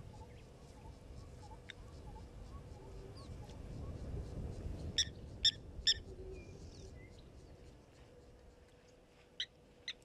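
Short, sharp bird calls from shorebirds: three loud ones in quick succession about halfway through and two more near the end, over a low, steady rumble and faint, repeated high peeping.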